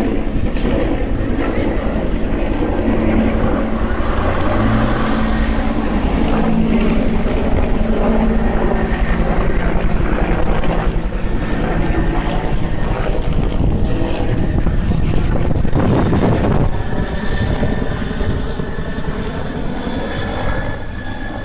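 Firefighting aircraft flying low overhead, its engines a loud, steady drone that eases off a little near the end.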